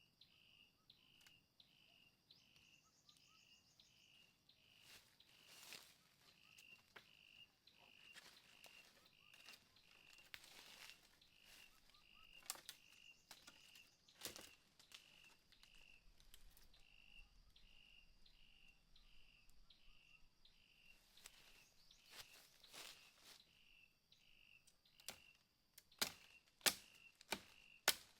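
An insect chirping in an even rhythm, a couple of pulses a second, over a faint steady high insect hum, with scattered rustles and cracks. Near the end comes a run of sharp, regular knocks, about two a second, louder than the rest, like chopping.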